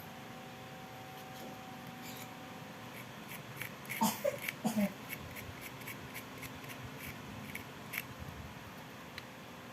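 A series of light clicks and taps, as of small switch parts being handled and worked, with a short squeak about four seconds in.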